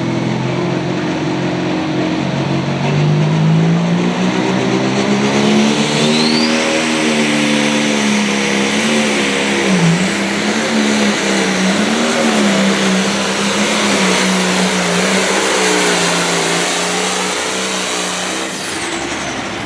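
Turbocharged diesel engine of an International pulling tractor under full load during a pull. The engine climbs in revs over the first few seconds, holds high revs with its pitch wavering up and down, and eases off near the end.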